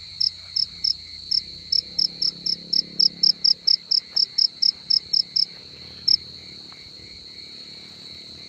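A cricket calling close by, loud evenly spaced chirps about four a second that stop about five and a half seconds in, with one last chirp a moment later. A steady high insect trill runs underneath.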